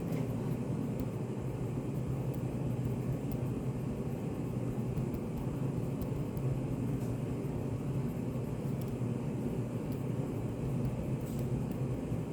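Steady low rumbling room noise of a study café, used as white noise, with a few faint clicks now and then.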